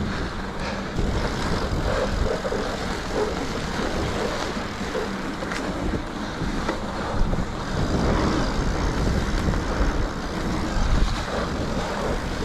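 Mountain bike on 2.8-inch tyres rolling steadily over groomed, packed snow, with wind on the microphone and a few short knocks from the bike.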